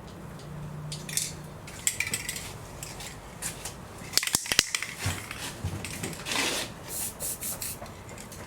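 Engine-bay cleaning: several short hissing sprays of cleaner, some in quick succession near the end, with a cluster of sharp clicks and clatter about four seconds in.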